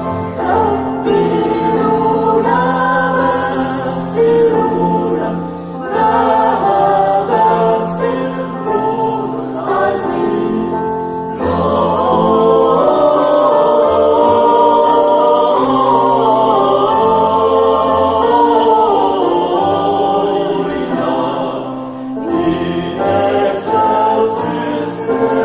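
A choir singing, men's and women's voices together, over held low accompanying notes; the music shifts to a new passage about 11 seconds in and again near the end.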